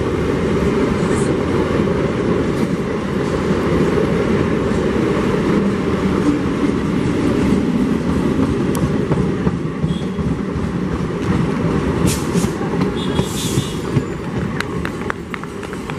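Eastern Railway electric multiple unit (EMU) local train running past close by: a loud, steady rumble of wheels on rails. Several sharp clicks come from about three quarters of the way through, and the rumble eases slightly near the end as the last coaches go by.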